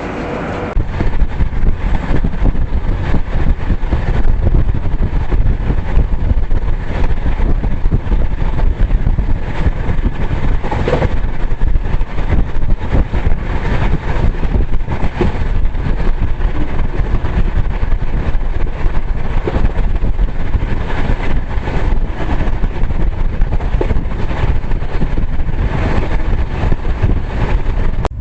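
Passenger train running at speed: a loud, steady low rumble with a rapid, irregular clatter of wheels on the track, getting louder about half a second in.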